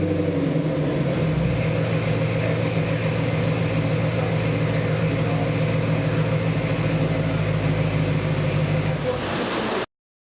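A 289 cubic-inch Ford small-block V8 with MSD Atomic throttle-body fuel injection running on an engine dyno. Its revs drop about a second in, then it runs steadily until the sound cuts off abruptly near the end.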